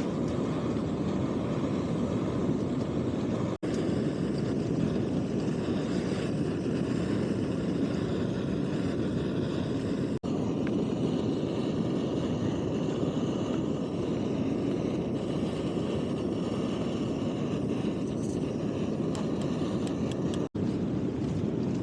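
Backpacking stove burner running with a steady roar while boiling water. The sound drops out briefly about 4, 10 and 20 seconds in.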